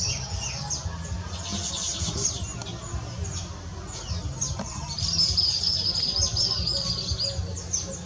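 Small birds chirping: many quick, high, falling notes overlap throughout, and a steady high trilled note runs from about five seconds in until near the end.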